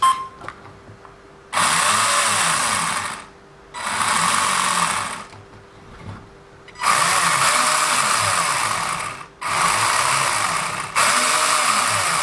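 A WLToys 144001 RC car's electric motor and drivetrain spin up in about five throttle bursts, each a second or two long, with the pitch rising and falling. The whirring carries a grinding, which turns out to come from the metal centre driveshaft shaking in and out because its end screw is missing. A faint steady whine sounds between the bursts.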